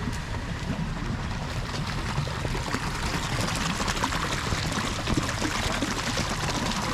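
Steady heavy rain, with a dense patter of drops hitting close by over a low, even rumble.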